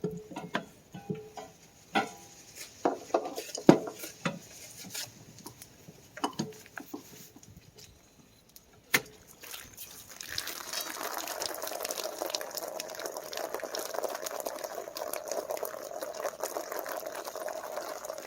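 Scattered clicks and knocks of handling, then from about ten seconds in a steady rush of water pouring.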